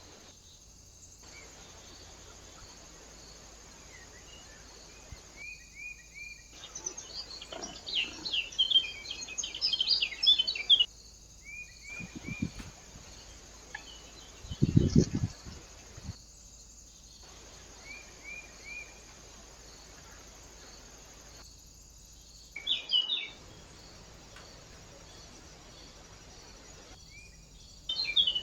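Small birds chirping and twittering at a bird feeder, recorded through a trail camera's microphone over a steady faint hiss, with a few loud low thumps near the middle. The sound cuts out briefly every few seconds.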